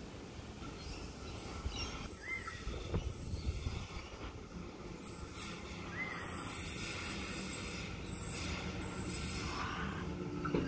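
Electric suburban train approaching along a curve, its rumble slowly growing louder, with repeated short high-pitched squeals from the wheels on the curved track.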